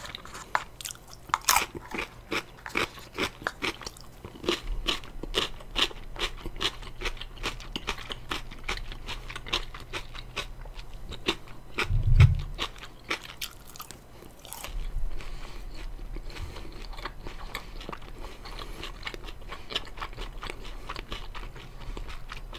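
Crisp fried chicken being bitten and chewed close to the microphone: dense, irregular crunches through the first half, thinning out after that. A low dull bump about halfway through.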